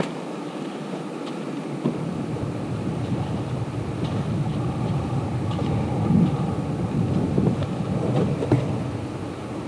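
Wind buffeting a small action-camera microphone: a low, uneven rumble that thickens about two seconds in, with a few faint clicks over it.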